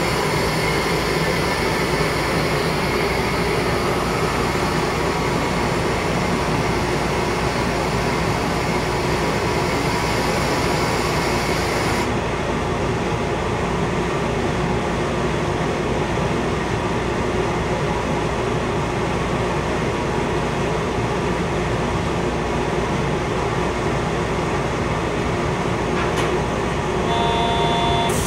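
Steady running hum of a Mugunghwa-ho passenger train standing at a station, heard from inside the door vestibule. A high hiss in it stops about twelve seconds in. Near the end a few short electronic beeps sound, the warning that the doors are about to close.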